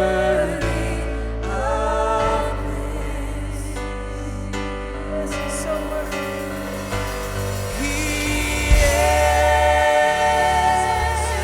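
Live worship band playing a slow passage of long held notes over a steady bass.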